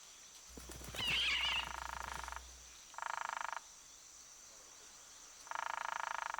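An animal giving three rapid buzzing trills, the first long and the other two shorter, with a brief higher chirp about a second in.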